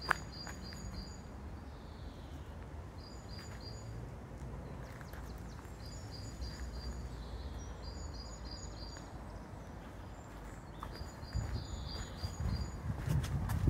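A songbird singing a short phrase of quick repeated high notes, again and again every second or two, over a steady low rumble. Near the end, irregular louder low thumps come in.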